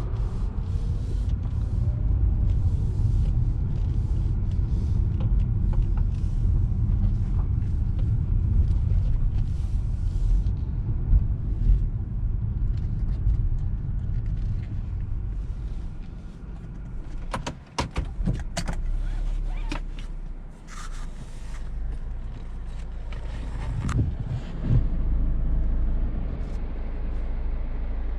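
2017 Lexus RX 200t with a 2.0-litre turbocharged four-cylinder (8AR-FTS) driving in city traffic: a steady low rumble of engine and road noise. Around the middle the rumble eases and a few sharp clicks sound, then it settles into a steadier, lower hum.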